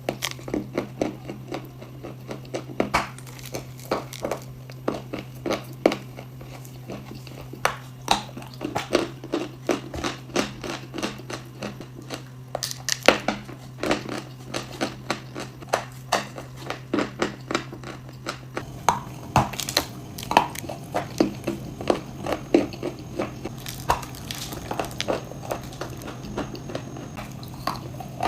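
Edible chalk and clay being crunched: many irregular sharp crunches and crackles, a few a second, over a steady low hum.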